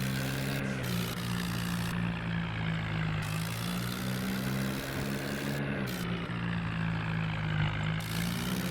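Swaraj 963 FE tractor's diesel engine running steadily under load, a low drone with small shifts in pitch.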